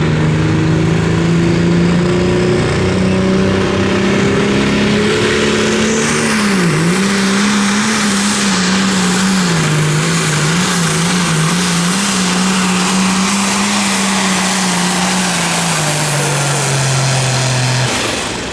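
Competition pulling tractor's engine at full throttle under load during a pull. Its steady note dips sharply once about a third of the way in and wavers a little further on, then drops in pitch and cuts off near the end.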